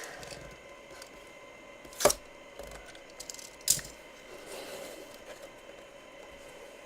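Packaging being opened by hand: two sharp clicks about a second and a half apart, with small ticks between them and light rustling after.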